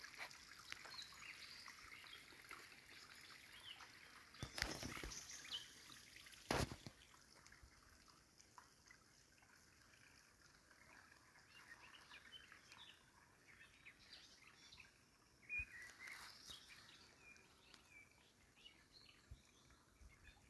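Faint outdoor ambience of small birds chirping, with a few brief sharp knocks, the first about four and a half seconds in and another two seconds later.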